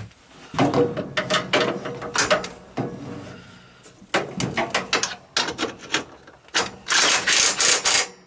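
Three bursts of rapid mechanical clicking and rattling, the last one the densest and loudest, near the end.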